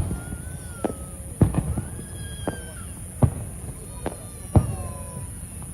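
Aerial fireworks shells bursting overhead: about seven sharp booms at irregular intervals, each followed by a low rumble, with thin whistling tones that glide between the bursts.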